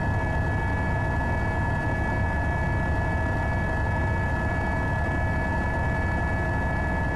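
Helicopter running steadily: a constant high turbine whine made of several held tones over a heavy low rumble.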